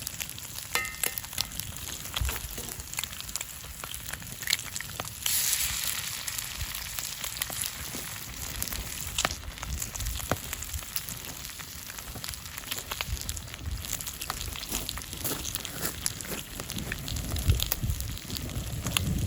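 Food frying in oil in a pan over a wood campfire: a steady sizzle full of small crackles and pops. About five seconds in, the sizzle flares into a louder hiss for a second or two, then settles back.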